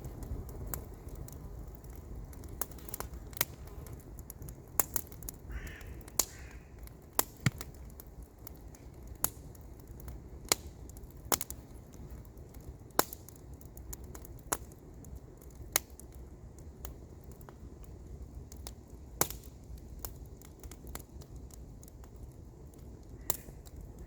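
Wood campfire crackling, with sharp, irregular pops and snaps over a low, steady background rumble.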